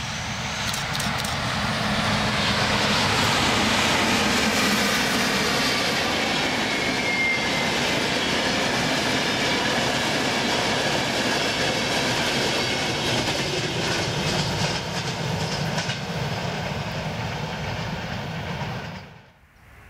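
Electric-locomotive-hauled passenger train passing at speed: a loud, steady rumble and clatter of wheels over the rails that builds as it approaches, with a brief high wheel squeal about seven seconds in. The sound cuts off abruptly near the end.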